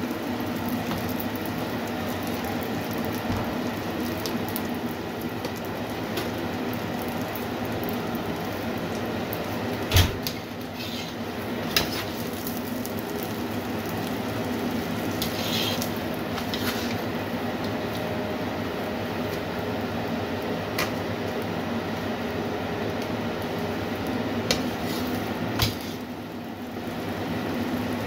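Steady sizzle of an aloo paratha frying in oil on a cast-iron tawa, over a steady low hum. A few sharp knocks of a metal utensil against the pan break in, the loudest about a third of the way in.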